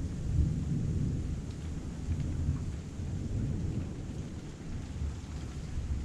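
Heavy rain falling steadily, with a continuous low rumble underneath and a few faint drop ticks.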